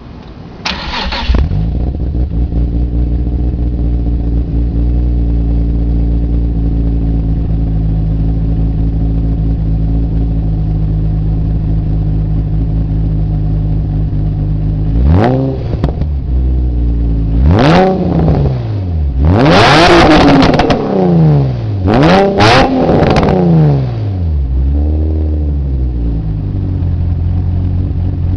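Nissan 350Z's 3.5-litre V6, built with JWT C8 cams, 11:1 compression, long-tube headers and an HKS exhaust, cranked and catching about a second in, then idling steadily. About halfway through it is blipped several times, the revs rising and falling, with one longer, louder pull in the middle, before it settles back to idle.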